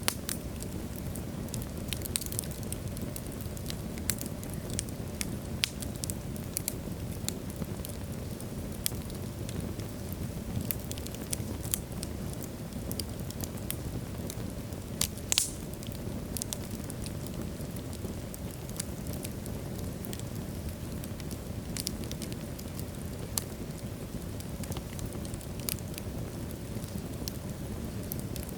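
Wood logs burning in a fireplace: a steady low rumble of flames with irregular crackles and sharp pops, one louder pop about halfway through.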